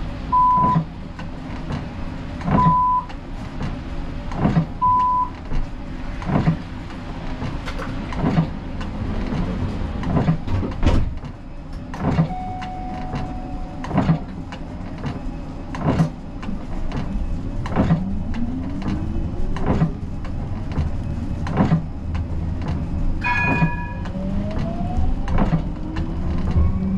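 Siemens Combino tram's cab: a few short electronic beeps about two seconds apart near the start, regular knocks about every two seconds, and the traction motors' whine rising in pitch twice in the second half as the tram accelerates.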